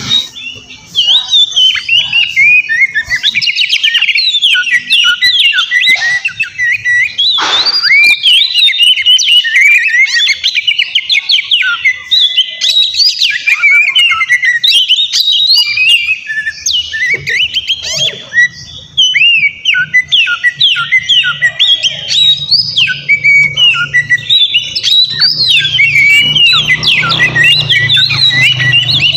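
Oriental magpie-robin (kacer) singing non-stop, a rapid, loud stream of varied whistles and chirps. One long falling whistle comes about seven seconds in, and a low hum joins in near the end.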